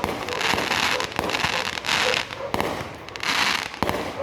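Fireworks going off: a string of sharp, uneven bangs amid swells of crackling hiss.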